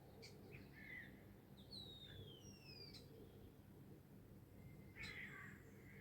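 Faint wild birdsong: short chirps and two falling whistles, then a louder burst of chirping about five seconds in, over a steady low background noise.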